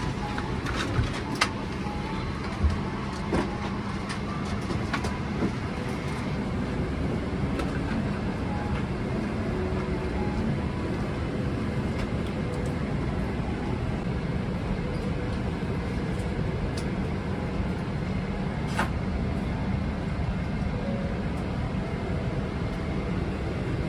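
Steady rumble of a ride inside a moving vehicle, with a few sharp knocks and rattles in the first few seconds and one more later on.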